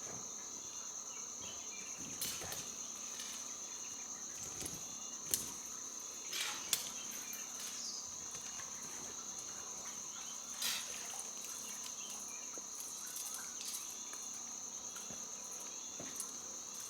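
Steady high-pitched chirring of insects, with a few brief knocks and rustles scattered through it.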